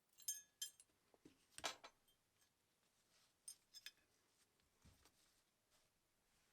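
A few faint, scattered clinks and taps of small metal parts and tools being handled and set down. The first two have a brief metallic ring, and the loudest knock comes about a second and a half in.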